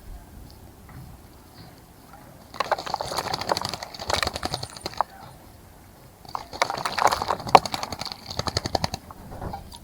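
A bird bathing in a bird bath, splashing and fluttering its wings in the water in two rapid bouts of a few seconds each, with a short pause between them.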